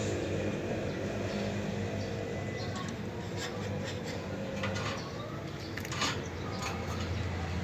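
Pet birds giving scattered short, high chirps over a steady low hum.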